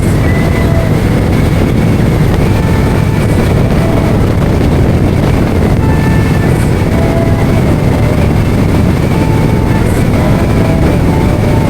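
Steady, loud rumble of a motorcycle riding at speed: wind and road noise mixed with the engine, picked up by a microphone on the moving bike or helmet.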